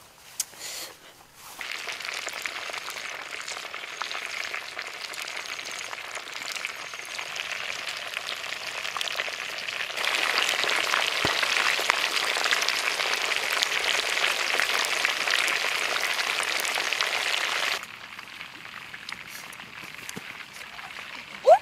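Whole chickens sizzling in hot oil in a pan: a steady frying hiss that gets louder about ten seconds in and cuts off suddenly near the end.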